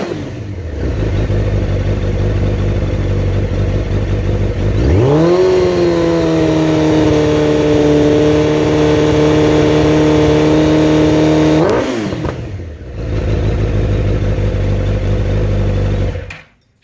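2001 Suzuki GSX-R1000 K2's inline-four engine running on a Yoshimura exhaust: idling, revved up about five seconds in and held at a steady high rpm for about seven seconds, then dropping back to idle before the engine is shut off near the end.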